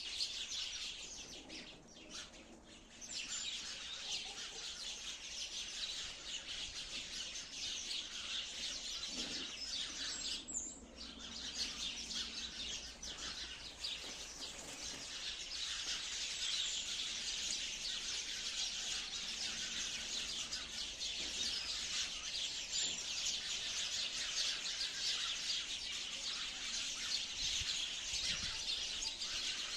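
A flock of sparrows chirping in a dense, unbroken chorus of quick, high chirps. It thins briefly about two seconds in and again around eleven seconds.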